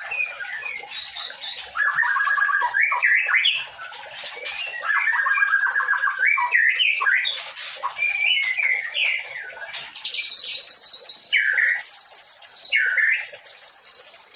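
White-rumped shama (murai batu) singing a long, varied song of whistled sweeps and trills. About ten seconds in it turns louder, with repeated high rattling trills broken by low swooping notes.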